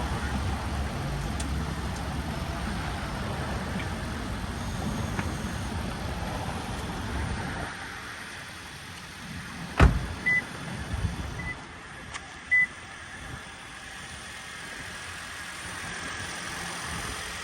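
Toyota Prius V's 1.8-litre four-cylinder petrol engine running steadily just after a cold start, dropping in level about eight seconds in. Near the middle there is a single loud thump, followed by three short high beeps.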